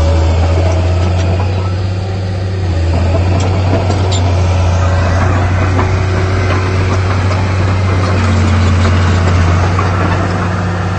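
Heavy diesel engine of earthmoving equipment running steadily with a low, even drone, dipping slightly about two seconds in.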